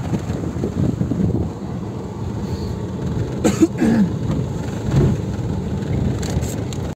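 Steady low road rumble of a car driving, heard from inside. About three and a half seconds in, a person makes a brief vocal sound that falls in pitch.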